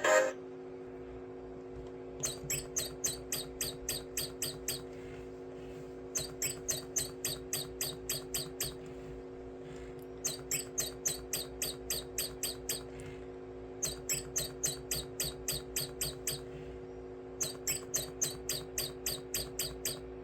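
A singing bird toy chirping in five bursts of about a dozen quick, high chirps each, the bursts about four seconds apart. A steady low hum of a few fixed tones runs under the chirps.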